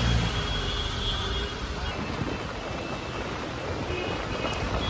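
Street traffic in the rain: a vehicle rumbles past close at the start, fading within a second or two, over a steady hiss of rain and traffic noise.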